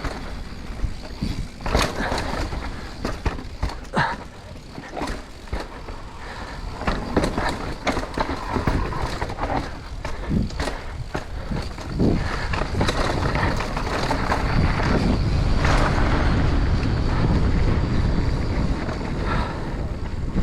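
Mountain bike running down a rough dirt trail: tyres rumbling over the ground, with frequent sharp knocks and rattles from bumps and rocks over a low rush. It gets louder and steadier in the last third.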